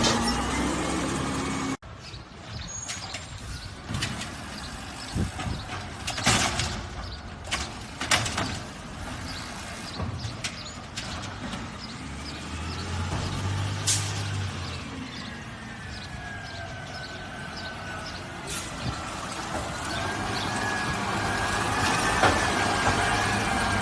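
Garbage truck at work: engine running, with scattered clanks and knocks, and a wavering whine that grows louder over the last several seconds.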